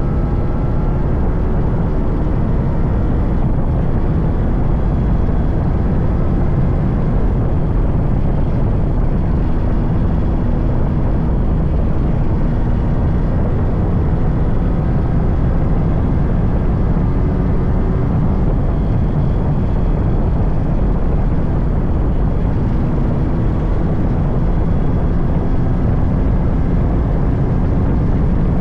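Yamaha RX100's 98cc single-cylinder two-stroke engine running while riding, its pitch rising and falling slowly several times as the revs change, over a heavy, steady low rush of noise.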